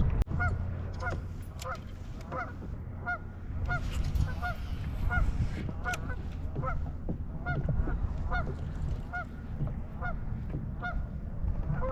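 Geese honking, short calls repeating about twice a second.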